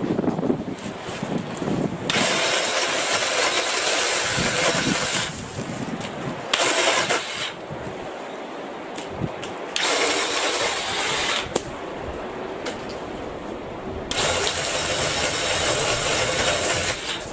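Black+Decker 18V battery-powered saw cutting tree branches, its motor running in four bursts of a few seconds each, with quieter gaps between.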